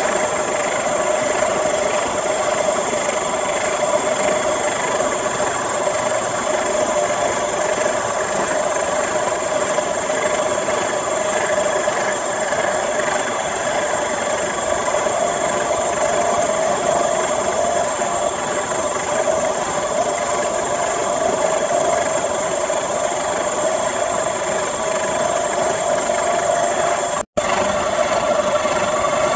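Small electric water-pump motor driving a homemade briquette extruder, running steadily with a whine and some rattle. The sound drops out for an instant near the end.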